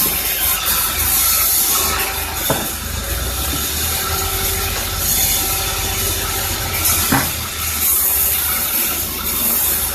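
Sawmill machinery running with a steady hiss and low hum, with sharp knocks about two and a half seconds in and again about seven seconds in.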